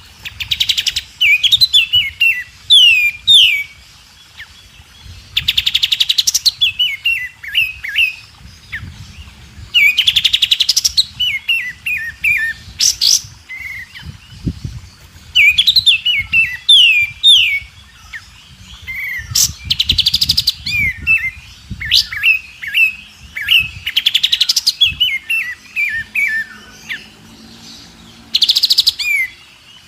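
White-rumped shama (murai batu) singing in repeated phrases every four or five seconds. Each phrase is a harsh rapid rattle followed by a quick run of down-slurred whistles.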